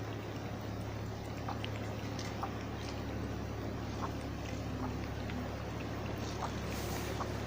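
A cat lapping water: faint small wet clicks, roughly one or two a second, over a steady low background hum.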